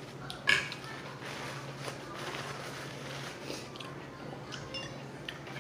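Close-up chewing and mouth sounds of a person eating rice and beans, soft and moist with small ticks, with one sharp click about half a second in.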